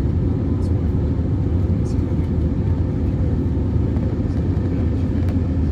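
Steady low rumble in the cabin of an Airbus A320neo, the engines and airflow running evenly, with a few faint clicks.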